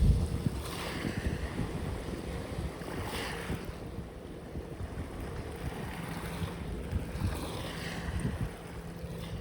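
Sea waves washing in, three surges of hiss that swell and fade, over wind rumbling on the microphone.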